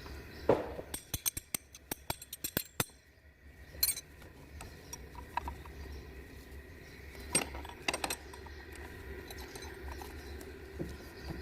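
Metal tools and parts clinking and clicking as they are handled. A knock comes about half a second in, then a quick irregular run of clicks, then a few separate clinks later on, over a steady low hum.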